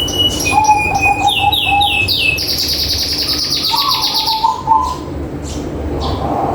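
Zebra doves cooing in runs of short repeated low notes, mixed with high chirps and fast trills from other small birds, over a steady low background noise.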